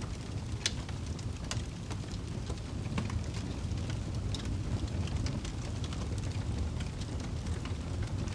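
Wood fire in a fireplace crackling: scattered sharp pops and snaps, several a second, over a steady low rumble of the flames.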